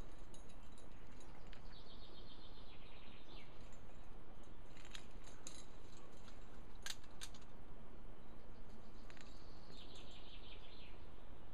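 Steady outdoor background noise, with a songbird's rapid trill about two seconds in and again near the end, and a few sharp clicks in between.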